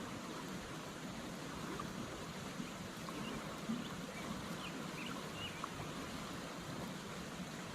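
Creek water running steadily, with a few faint short bird chirps and a couple of soft knocks.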